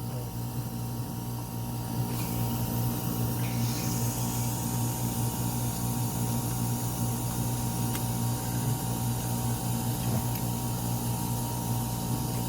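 Refrigerant hissing out of a leaking air-conditioner service port, over the steady hum of the running unit. The hiss comes in about two seconds in and grows fuller near four seconds; the leak persists even while gas is being charged.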